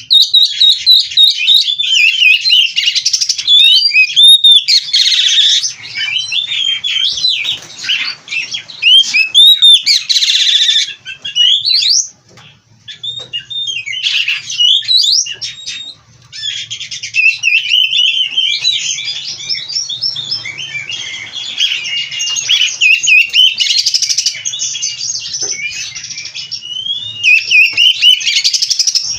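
Oriental magpie-robin (kacer) singing a loud, rapid, varied song of whistles, trills and chirps, packed with mimicked phrases of other birds. There are two brief breaks about halfway through.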